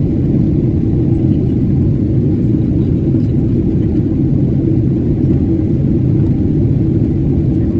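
Steady low rumble of an Airbus A330-300 in flight, its engine and airflow noise heard inside the passenger cabin.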